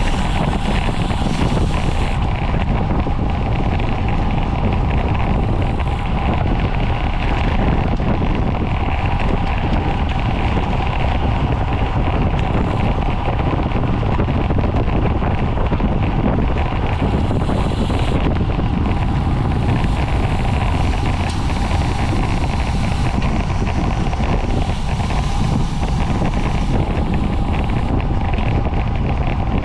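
Steady wind noise buffeting the microphone of a camera on a road bike ridden at race speed, with a faint steady tone underneath.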